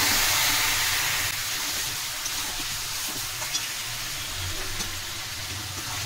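Chicken pieces in spice paste sizzling in hot oil in a metal kadai as they are stirred with a metal spatula, with a few light scrapes and clicks of the spatula on the pan. This is the kosha stage, in which the meat is dry-fried with ginger-garlic-onion paste. The sizzle gets gradually quieter.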